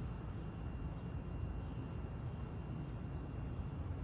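Insects trilling steadily at a high pitch, over a low background rumble.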